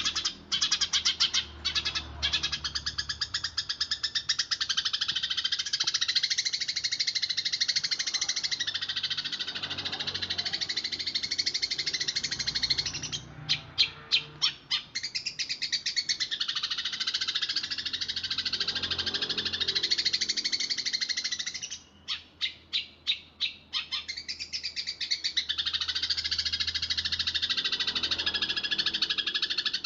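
Eurasian tree sparrows chattering in a fast, dense roll of high chirps, broken twice (about 13 and 22 seconds in) by a short run of separate, evenly spaced chirps.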